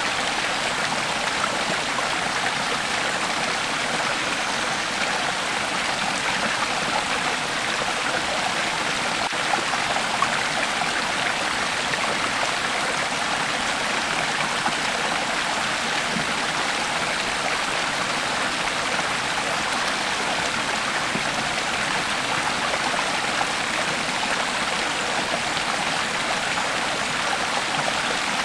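A shallow creek flowing steadily over rocks, a constant rushing and babbling of water.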